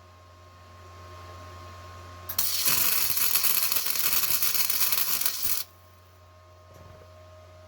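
Electric arc welding a short bead on a mower deck's gauge wheel arm. The arc crackles and hisses for about three seconds, starting abruptly a couple of seconds in and cutting off sharply, over a steady electrical hum.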